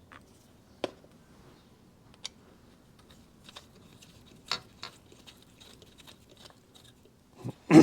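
Scattered light clicks and taps of small steel parts, the cylinder studs and nuts, being handled and threaded into the engine case, with a louder clunk near the end.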